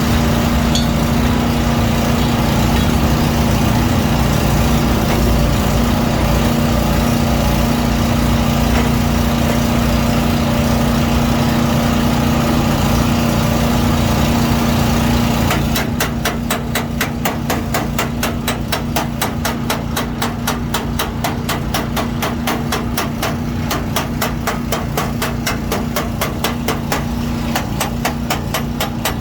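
A steady machine hum runs throughout. About halfway through, a rapid, even series of hammer strikes starts, about four a second, typical of hammering out dents in a car's sheet-metal body panel.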